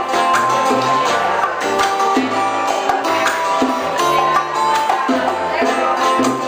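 Live old-school Cuban band music: plucked guitar and percussion over a bass line in a steady rhythm.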